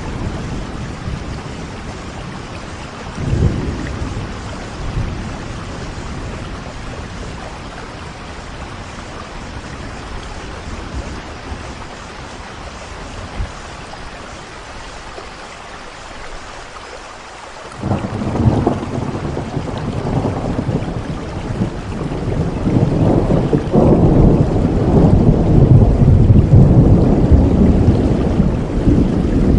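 Heavy rain falling steadily, with thunder: a clap about three seconds in, then a sudden loud crack just past the halfway point that grows into a long, heavy rumble lasting to the end.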